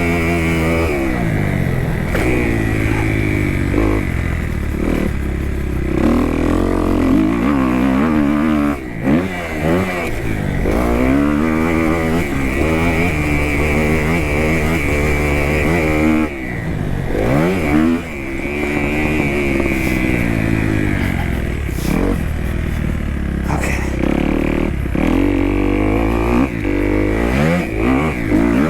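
A 2018 Kawasaki KX250F's single-cylinder four-stroke engine being ridden hard around a motocross track. The pitch climbs through the gears and falls each time the throttle comes off. The throttle is chopped sharply a few times, making brief dips in the engine note.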